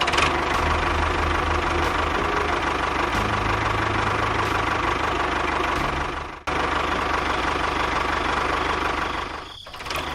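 A tractor-type engine running steadily, with a sudden break about six seconds in and a short dip near the end.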